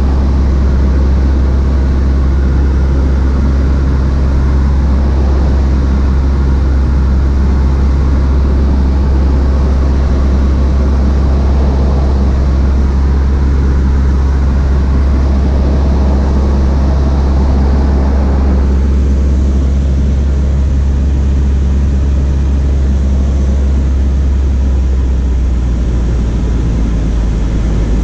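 Cessna 152's four-cylinder Lycoming engine and propeller running with a steady drone. Near the end the engine note drops a little.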